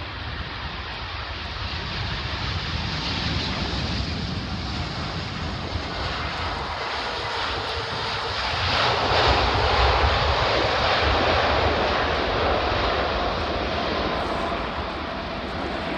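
Jet airliner passing, its engine noise growing to a peak about nine seconds in and then easing off.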